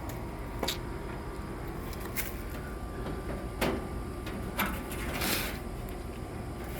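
A few light, scattered knocks and clicks and one short scrape, as the grill's metal grease pan is handled and carried.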